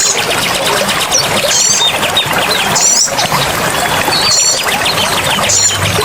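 Steady rush of running water with small birds chirping over it: a short high call repeated about once a second, and a rapid ticking trill underneath.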